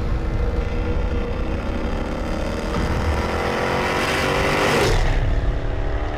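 Jaguar XE SV Project 8's supercharged V8 accelerating hard, its pitch climbing steadily through one gear. About five seconds in there is a short burst as it shifts up, and then it pulls again from lower revs.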